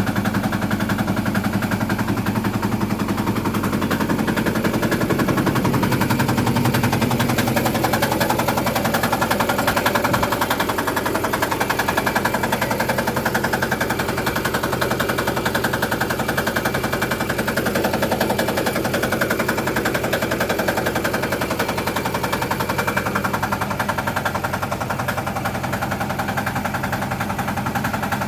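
A small motor running steadily with a rapid, even chatter of pulses, at an unchanging speed.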